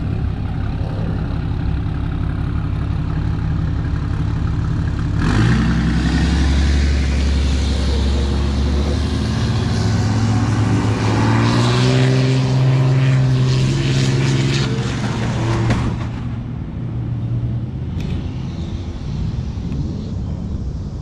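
Motor vehicle engine running, growing louder about five seconds in with a strong deep exhaust note that rises in pitch near the middle, then falling back to a lower running sound at about sixteen seconds.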